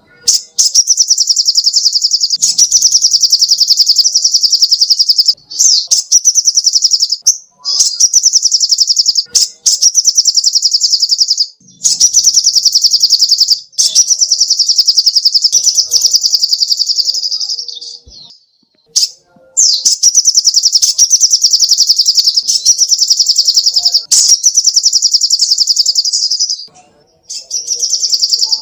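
Sogok ontong (little spiderhunter) singing: a loud, very fast run of high notes in long bouts of one to three seconds, broken by short pauses.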